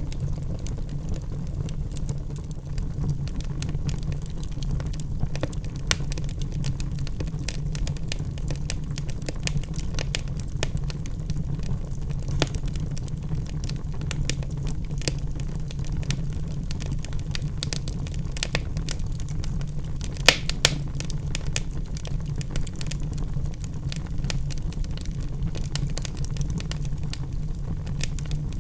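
Wood fire burning in a fireplace: a steady low rumble of flames with frequent sharp crackles and pops from the logs, and two louder pops about twenty seconds in.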